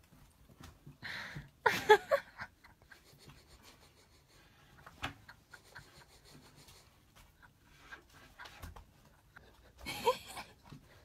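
A dog sniffing and licking, mostly quiet with small clicks, broken by a short louder breathy outburst about two seconds in and another near the end.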